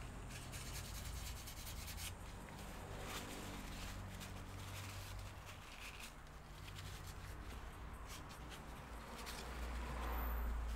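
Hands handling disassembled laptop parts: light rubbing and scattered small clicks over a low steady hum.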